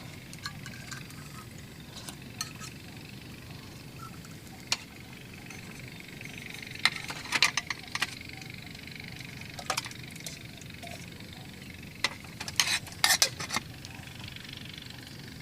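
Camp cookware clinking in scattered sharp strikes, bunched into two clusters about seven and twelve seconds in, over a steady hiss.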